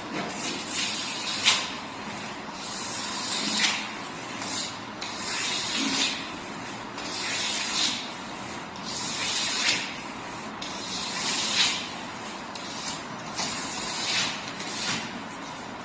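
Steady hissing noise that swells into louder surges about every two seconds.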